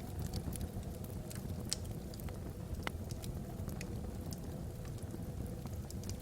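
Wood logs burning in a fireplace: a steady low rumble of the flames with frequent small crackles and a few sharper pops.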